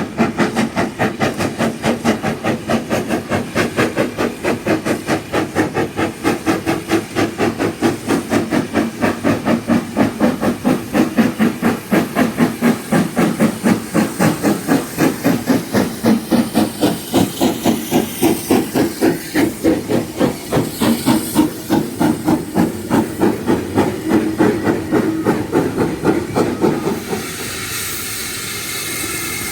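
Hudswell Clarke 0-6-0 saddle tank steam locomotive working under steam, its exhaust beating steadily about three times a second. Near the end the beats stop, leaving a steady hiss of steam.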